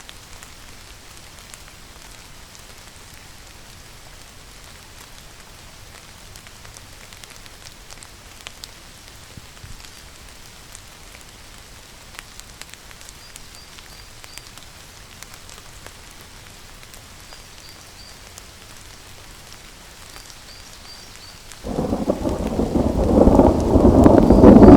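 Steady rain falling with scattered drop ticks. Near the end a loud rumble of thunder breaks in suddenly and builds.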